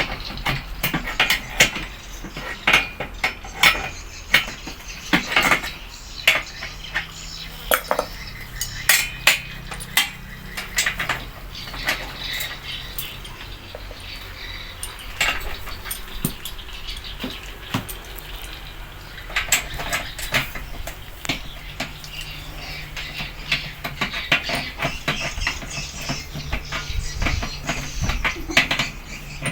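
Irregular light metallic clinks and taps, coming in quick clusters at times, over a low steady hum.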